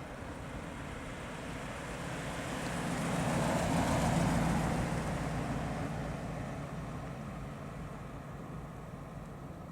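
A car driving past, its engine hum and tyre noise building to the closest point about four seconds in, then fading away.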